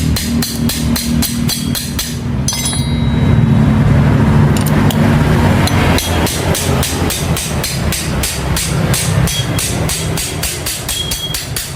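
A hammer striking metal in a fast, even series of blows, about four a second, pausing briefly a couple of seconds in, over a steady low hum.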